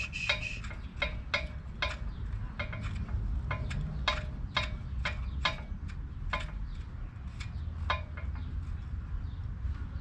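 Irregular sharp clicks and taps, about two or three a second, from work on the lower control arm's suspension bolts, over a steady low hum.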